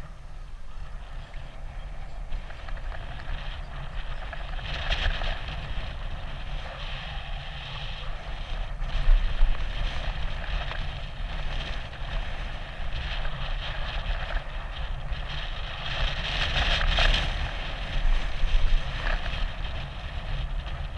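Wind rushing over a GoPro's microphone during a bicycle ride, over a steady low rumble of the ride. The rushing swells louder about five seconds in and again around seventeen seconds.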